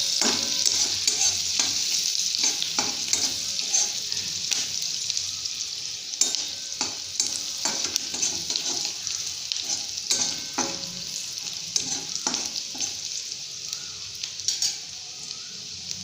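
Chopped onion, garlic and green chili sizzling in oil in a kadai as they brown, stirred with a spatula that scrapes and knocks against the pan again and again. The sizzle eases slightly near the end.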